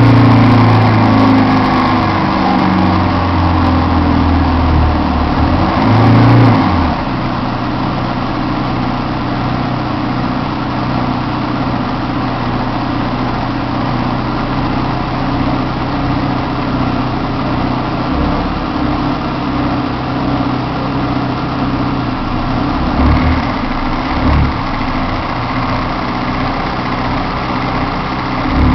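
Heuliez GX 427 articulated bus running with the abnormal, much louder noise it has developed. The engine winds down over the first couple of seconds, surges briefly about six seconds in, then runs steadily.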